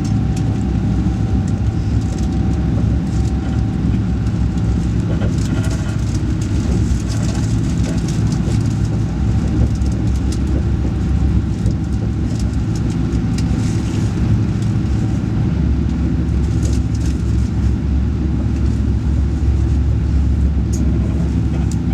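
Alfa Pendular tilting electric train running, a steady low rumble with scattered faint clicks and a faint steady hum.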